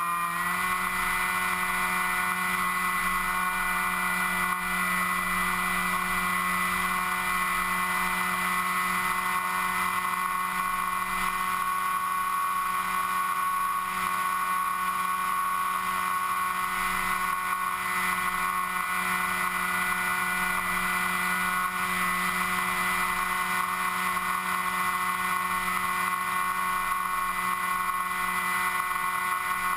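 An FPV model aircraft's motor and propeller, recorded on board, running with a steady whine in several pitches over a rushing noise. The pitch steps up slightly about half a second in, then holds.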